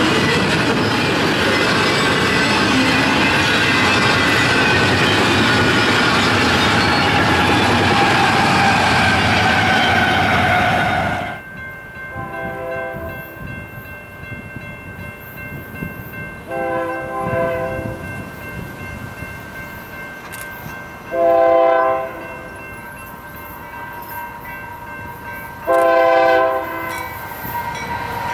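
Double-stack container train rolling past close by: a steady loud rumble of wheels on rail with a thin squeal that slowly falls in pitch, cut off abruptly about eleven seconds in. Then an approaching Union Pacific freight locomotive's air horn sounds the grade-crossing signal, two long blasts, a short one and a long one, over a quieter rumble.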